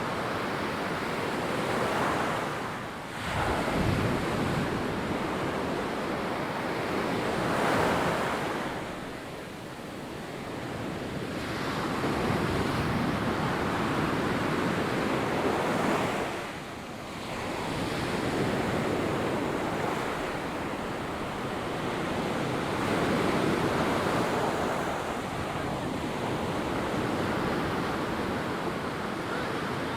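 Ocean surf washing onto a sandy beach, swelling and ebbing every few seconds, with wind gusting over the microphone.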